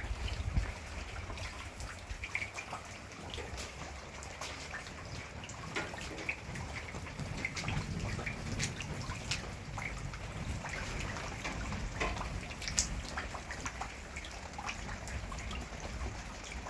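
Rain falling steadily, with many separate drops striking close by as irregular sharp taps over a low rumble.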